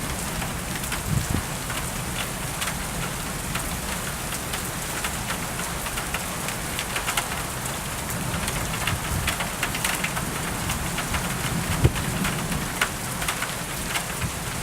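Steady rain falling during a thunderstorm, with many drops ticking on a surface. Low thunder rumbles in the background, swelling in the second half, with one sharp knock about twelve seconds in.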